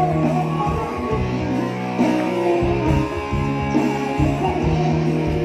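Live band music with electric guitar, bass and drums, playing an instrumental passage of a song with a steady beat.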